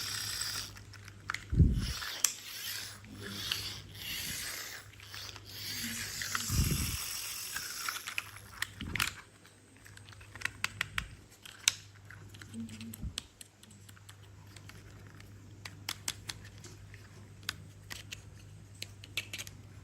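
Hands handling plastic toys: rustling and crinkling with a few dull knocks in the first nine seconds, then scattered sharp plastic clicks.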